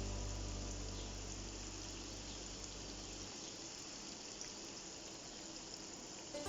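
Chicken wings deep-frying in hot oil, a steady sizzle. A low held note of background music stops about halfway through.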